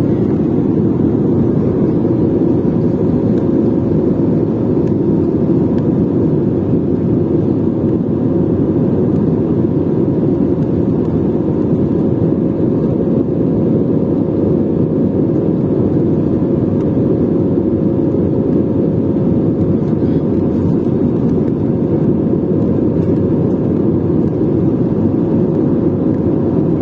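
Steady, loud rumble of a jet airliner's engines, with a steady hum running through it and no change in level or pitch.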